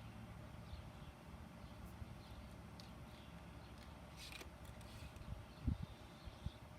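Faint outdoor ambience: a steady low rumble with scattered faint chirps, and a dull low thump near the end.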